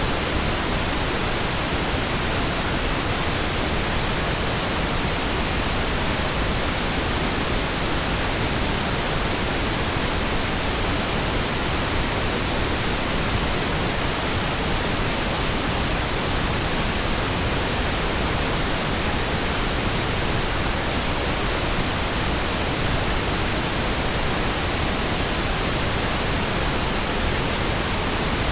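Pink noise: a steady, even hiss spread across all pitches, with no changes or breaks.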